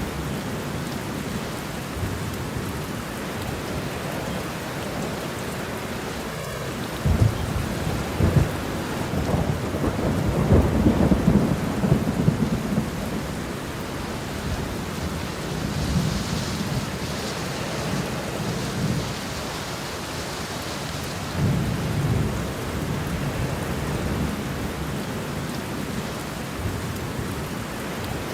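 Steady rain with rolling thunder. The rumbling is loudest from about seven to thirteen seconds in, with a smaller rumble a little past twenty seconds.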